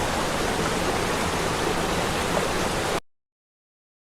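Steady rushing water noise of a waterfall that cuts off suddenly about three seconds in, leaving silence.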